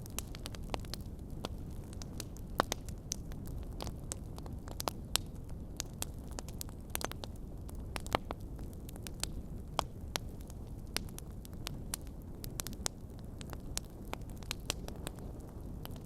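Wood fire crackling in a fireplace: frequent irregular sharp pops and snaps over a steady low rumble of the burning.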